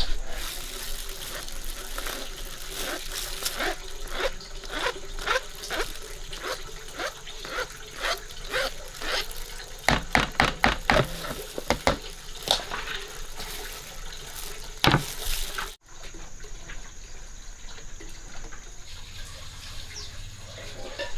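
Water splashing and sloshing with many irregular clicks and knocks, like kitchen work in a basin of water. It cuts off abruptly about three-quarters of the way through, leaving a quieter stretch with only occasional clicks.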